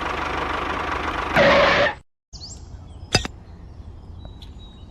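Steady mechanical running noise, louder for a moment near the end, that cuts off abruptly about two seconds in. Then a quiet outdoor background with a few bird chirps and a single sharp click about three seconds in.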